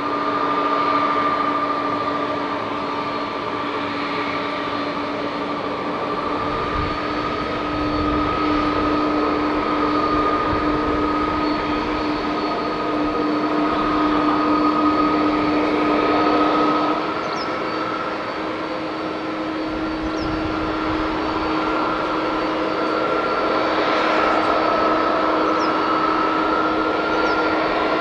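The Pratt & Whitney PW4000 turbofans of an Airbus A330-223 running steadily at low power, as when taxiing, with a steady engine whine. About two-thirds of the way through, the whine shifts slightly higher in pitch.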